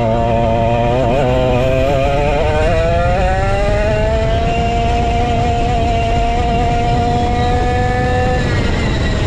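Vintage go-kart's 135cc Sudam engine running hard on track. Its pitch wavers up and down for the first few seconds, then climbs steadily for about five seconds and drops away near the end, over a heavy low rumble.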